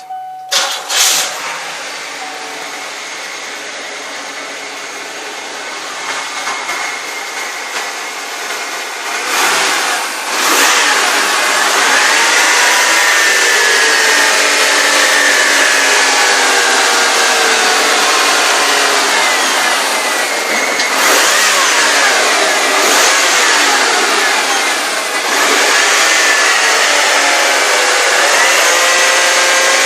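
1994 Oldsmobile Delta 88 Royale's 3800 3.8-litre V6 running: steady at first, then revved up and down several times from about ten seconds in.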